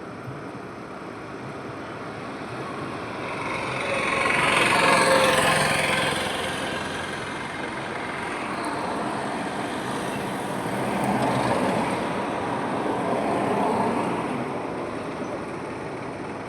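Highway traffic: vehicles passing one after another over a steady tyre-and-engine rush. The loudest pass comes about five seconds in, with two smaller passes later on.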